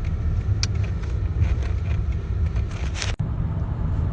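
Car driving, with a steady low engine and road rumble heard from inside the cabin, a few light clicks, and a sudden brief dropout about three seconds in.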